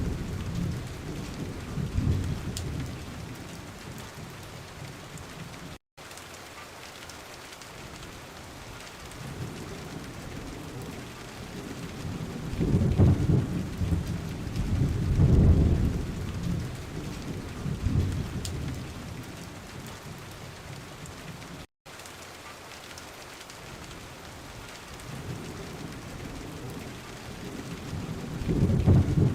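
Steady rain falling, with low rolling thunder rumbling several times, loudest about midway and again near the end. The sound cuts out for an instant twice.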